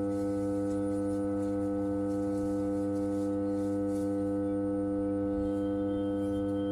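Energized power transformer humming: one steady, unchanging drone made of several deep tones stacked together.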